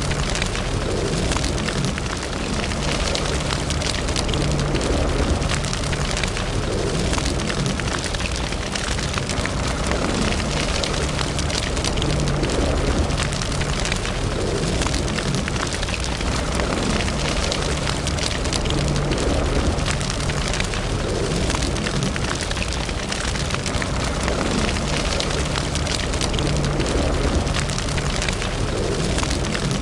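Wood fire burning in a fireplace: a steady rushing hiss with many small crackles and pops throughout.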